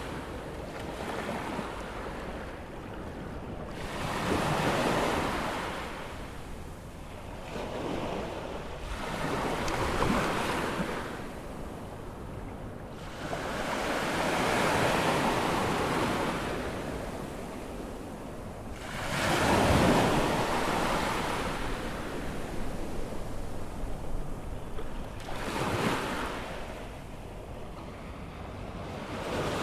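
Atlantic surf breaking and washing up the beach, each wave a swell of rushing water that rises and fades, one every three to five seconds.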